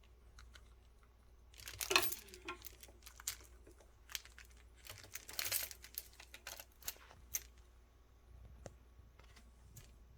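Crinkling, rustling noises in irregular bursts, the strongest about two seconds in and again around five to six seconds in, with scattered light clicks between.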